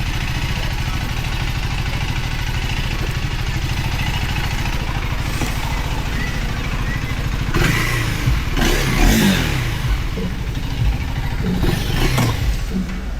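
Motorcycle engine running steadily under way, with a low, even pulse. About eight seconds in it gets louder for a couple of seconds, its pitch shifting and falling.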